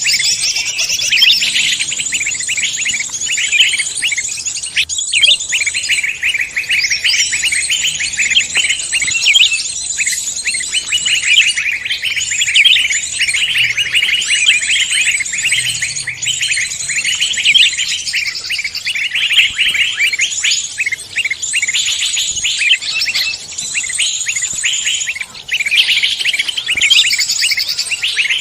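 Dense chorus of many songbirds chirping and trilling at once, with rapid high notes overlapping without a break.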